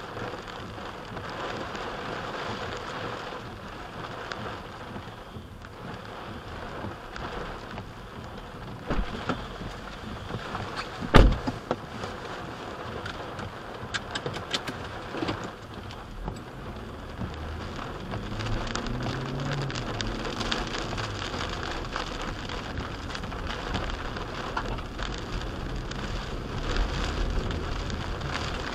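Heavy rain beating on the car's roof and windshield, heard from inside the vehicle, with one loud sharp knock about eleven seconds in. In the second half the car's engine and tyres on the wet road join in as it pulls away.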